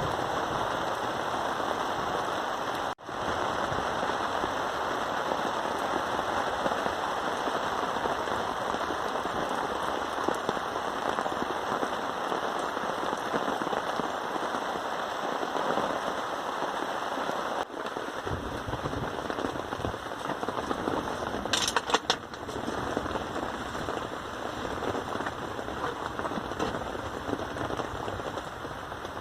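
Rain falling steadily, an even hiss of drops hitting a surface. There is a momentary gap about three seconds in, and a quick run of sharp clicks a little past the middle is the loudest moment.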